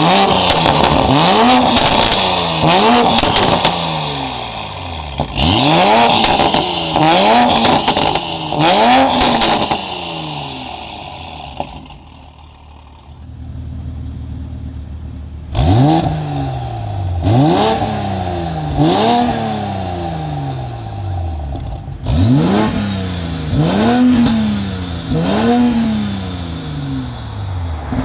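Toyota GR Supra's engine blipped repeatedly through an aftermarket titanium and stainless full exhaust: about a dozen quick revs, each snapping up and falling away, with crackling as the revs drop. In a pause a few seconds past the middle it settles to a quieter idle before the revving resumes.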